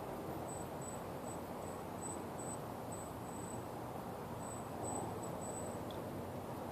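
Steady low rush of wind and tyre noise from a mountain bike ride, with an insect chirping high and thin, about two short chirps a second, until near the end.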